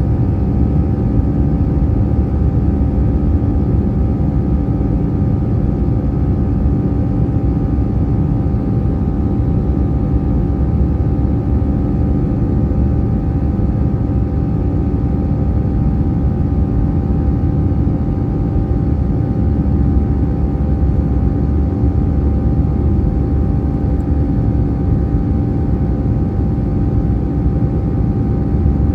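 Airbus A321-211's CFM56 jet engines running steadily, heard from inside the cabin: a continuous low rumble with a few steady humming tones over it.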